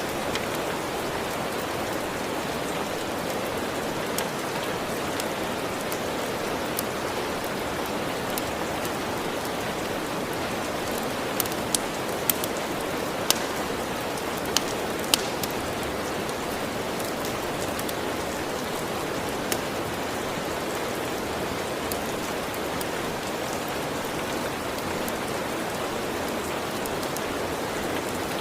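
Steady rain falling, an even rushing hiss, with a few sharp crackles of a wood fire, most of them in a cluster around the middle.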